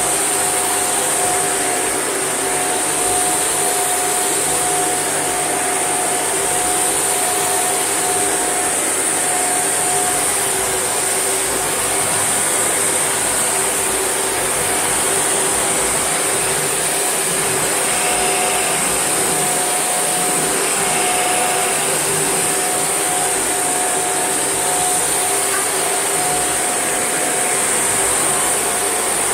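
Shark NV801UK upright vacuum cleaner running steadily, its motor giving a constant high whine and airflow hiss.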